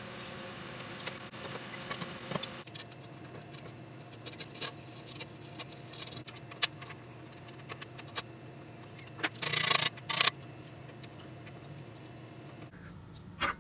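Light metallic clicks and clinks at irregular intervals over a steady low hum, with two louder rattling scrapes about nine to ten seconds in.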